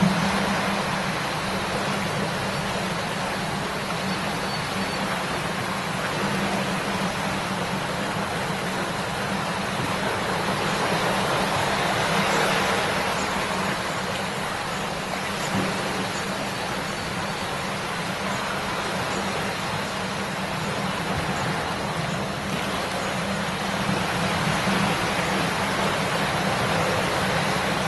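River water babbling over stones: a steady, even rush of running water.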